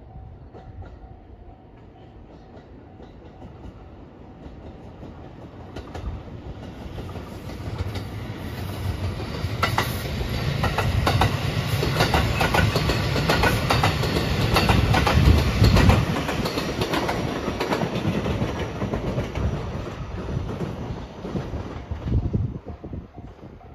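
Marine Liner rapid electric train approaching, passing close by and receding: a low rumble with a fast clatter of wheels over rail joints. It builds over the first several seconds, is loudest midway, and fades near the end.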